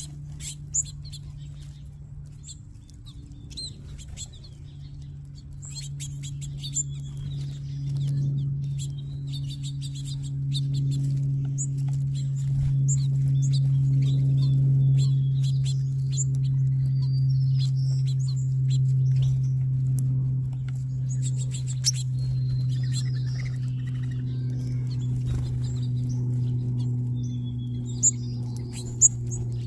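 Many small seed-eating birds chirping and twittering at a feeding spot, with scattered short clicks and a few sharp taps. Under them runs a steady low hum, the loudest thing, which swells a few seconds in and drifts slowly lower in pitch.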